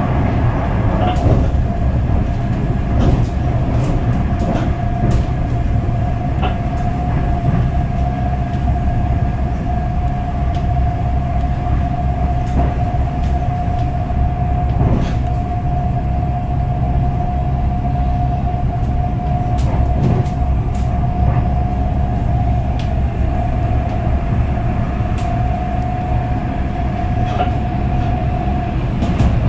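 Moving passenger train heard from inside the carriage: a steady low rumble of wheels on the track. A constant whine comes in about a second in and holds until near the end, with scattered clicks throughout.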